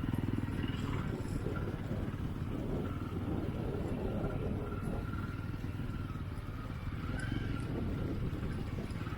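Motorcycle engine running steadily, a low, even rumble of fast firing pulses with no change in pace.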